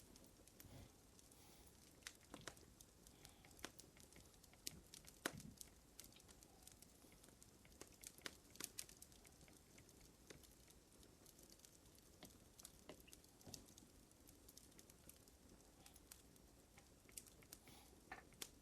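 Faint wood fire crackling: irregular sharp pops and snaps over a soft hiss, with one louder pop about five seconds in.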